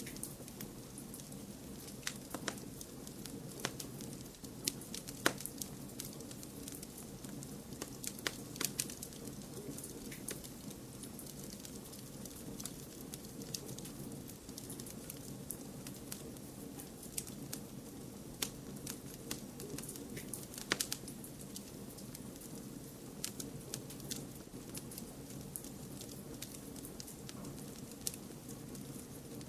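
Wood fire crackling in a fireplace: irregular sharp pops and snaps, a few of them louder, over a steady low rushing noise.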